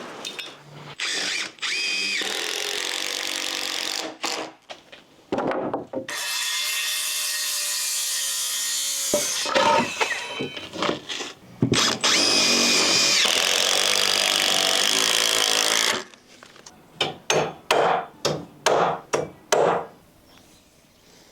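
Power tools working deck lumber: several long runs of a motor under load with a steady whine, then a quick string of short trigger bursts near the end, like a drill driving screws.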